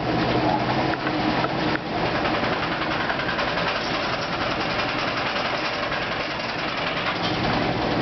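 2008 Kenmore washing machine in its spin cycle, running with a steady mechanical whir.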